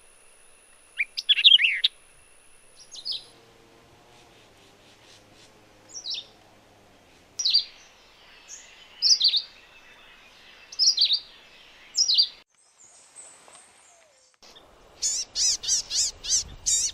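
Wild birds calling: single sharp, falling chirps repeated every second or two, then, near the end after a short break, a quick run of about seven high notes.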